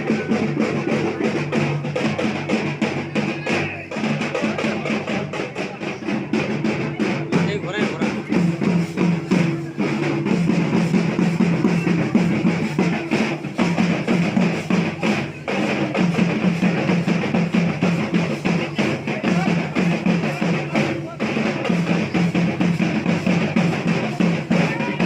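Continuous fast drumming with music, dense and unbroken.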